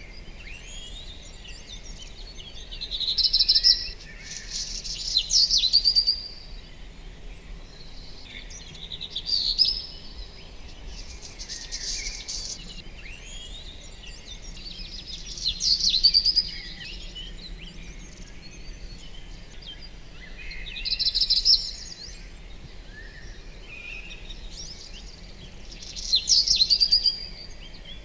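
Songbirds singing: a loud, high trilling song phrase of about a second comes every few seconds, seven times, over a steady chorus of fainter chirps and calls.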